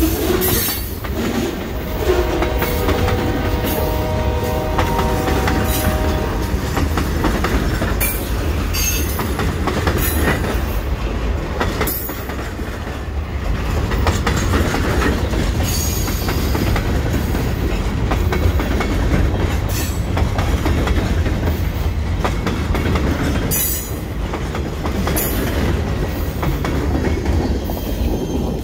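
Freight cars of a passing train rolling by: a steady rumble of steel wheels on rail, with scattered clacks as the wheels cross rail joints. A drawn-out tone sounds from about two to six seconds in.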